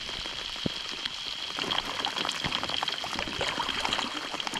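Steady heavy rain, with many separate drops striking close by, and a faint steady high tone underneath.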